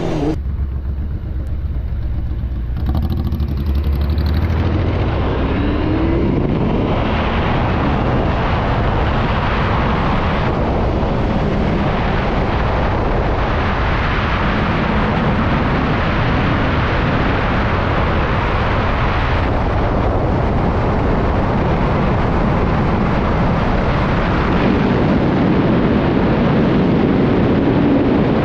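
Motorcycle riding at speed: engine running under a loud, steady rush of wind and road noise. The engine's pitch rises briefly about five seconds in.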